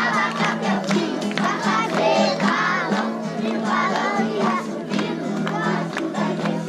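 A group of people singing together over music, with a steady low sustained tone underneath and frequent sharp beats.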